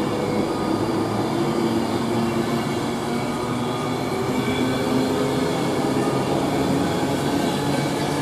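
Avanti West Coast Class 390 Pendolino electric train pulling out of the station, a steady running noise with several held tones from its traction equipment.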